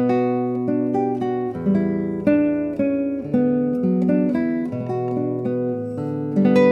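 Background music: solo classical guitar playing a melody of single plucked notes over ringing bass notes.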